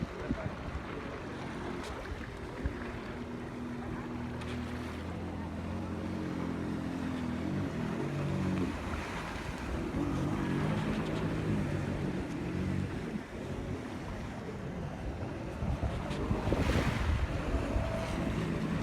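Jet ski engine running, its pitch shifting up and down as the throttle changes, with water and wind noise on the microphone. A louder gust or splash comes near the end.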